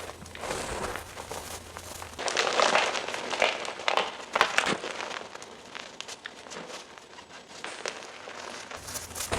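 Gym chalk crunching and crumbling under pressure: a string of irregular, crisp crunches. They are densest and loudest in the middle stretch.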